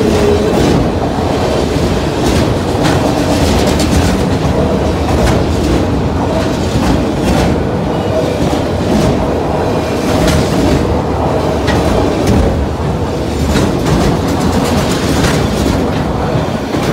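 Freight train of autorack cars rolling past close by: a steady rumble of steel wheels on rail with repeated clicks as the wheelsets cross rail joints, just starting to fade at the very end.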